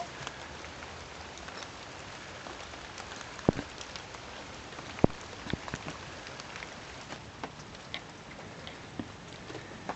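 Heavy rain falling steadily, with scattered sharp taps of drops, two louder ones about a second and a half apart a few seconds in.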